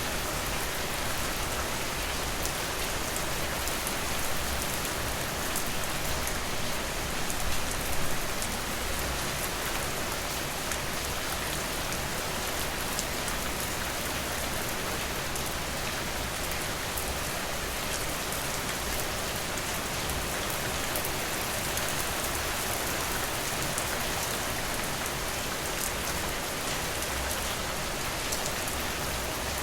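Steady rain falling, a continuous hiss with individual drops ticking through it; it swells a little for a moment about eight seconds in.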